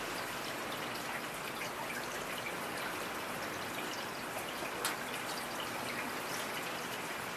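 Steady rain falling, with scattered individual drops ticking and one sharper drop about five seconds in.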